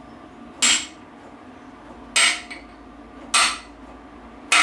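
Hammer blows on a brass drift, four evenly spaced strikes with a short metallic ring, driving a part into a BSA B25 gearbox casing. The part is not yet fully seated: the pitch of the blows changes once it lands home.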